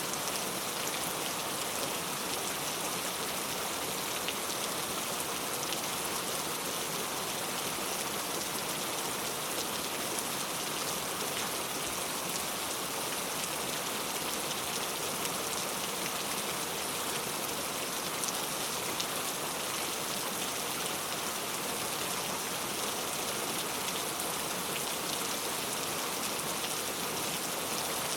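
Heavy rain falling steadily, an even hiss of countless drops on surfaces, with no thunder.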